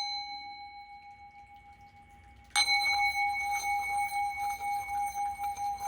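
Tibetan singing bowl ringing with a clear tone and higher overtones, fading away after a strike. About halfway through it sounds again with a sharp onset and then keeps singing at a steady level with a regular pulsing wobble, as when the rim is circled with the mallet.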